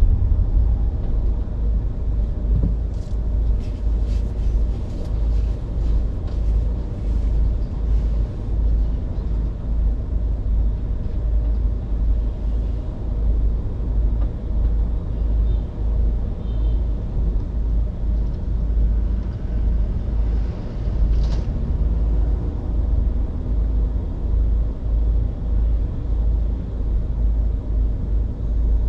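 Car driving on city streets: a steady low road and wind rumble that flutters unevenly, with a few faint clicks in the first third and one more later on.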